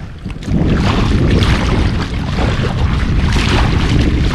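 Wind buffeting the microphone: a loud, low rumble that starts suddenly about half a second in and carries on steadily.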